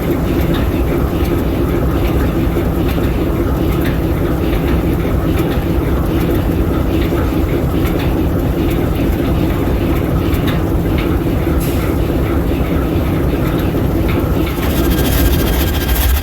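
ALCO S4 locomotive's 539T turbocharged six-cylinder diesel prime mover running steadily. A brighter hiss comes in near the end.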